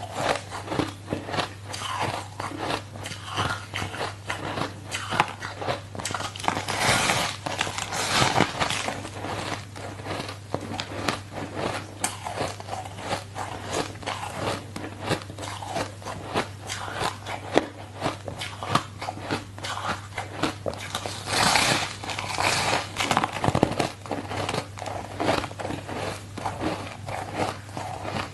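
Ice being bitten and chewed close to the microphone: continuous irregular crunching and crackling, with louder bursts of crunching twice. A low steady hum runs underneath.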